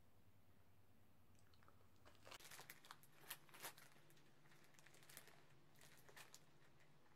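Mostly near silence, with faint chewing of gummy sweets and a few soft crackles from about two and a half seconds in.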